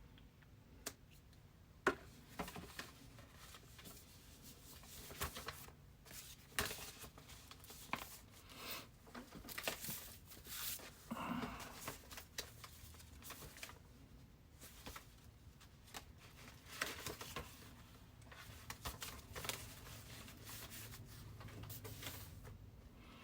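Faint, irregular clicks and short rustles, like small objects being handled and paper or plastic crinkling close to the microphone, with a longer rustle about halfway through.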